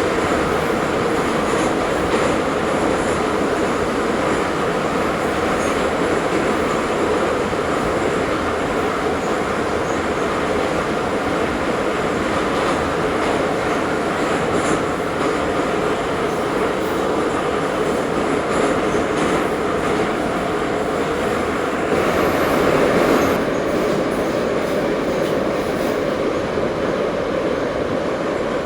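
Ezh3 metro train running between stations: a steady rumble of wheels on rail with some wheel squeal and clickety-clack, growing briefly louder a little after three quarters of the way through.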